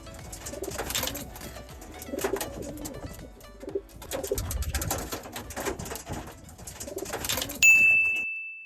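Racing homing pigeons cooing in repeated low phrases, with scattered clicks and rustles. Near the end a single bright ding rings out and fades.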